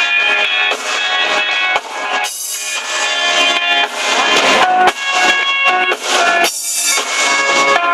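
Live band music with drum kit and guitar, playing loudly through a sound system, with cymbal crashes twice.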